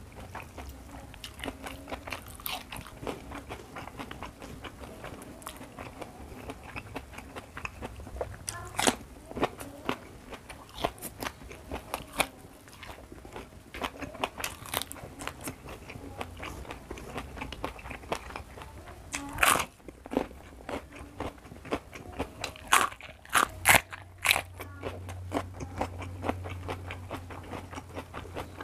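Close-miked eating: wet chewing with sharp crunchy bites of raw vegetables, several loud crunches in the second half. A faint low hum comes in near the end.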